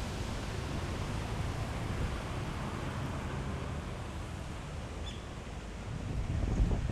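Wind buffeting the microphone over a steady outdoor hiss, easing off and then picking up again near the end.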